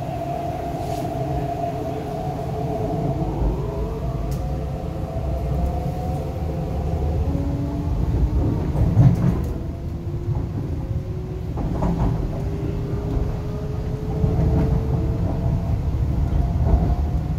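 Interior of an MTR East Rail Line R-Train electric multiple unit under way: a steady low rumble of wheels on rail with a motor whine. The whine rises in pitch through the second half as the train gathers speed, and there are a few short knocks about halfway through.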